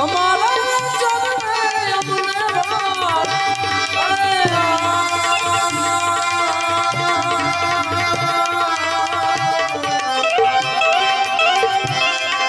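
Gujarati folk music with a tabla keeping a steady rhythm under a melody. The melody bends in pitch for the first few seconds, then settles into long held notes.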